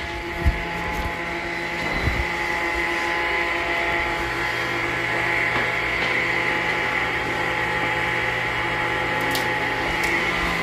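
Sawmill machinery running steadily with a constant, even hum and a couple of dull knocks in the first two seconds.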